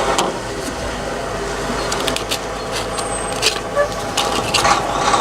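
Truck engine idling steadily, with a few light clicks and taps from about two to five seconds in.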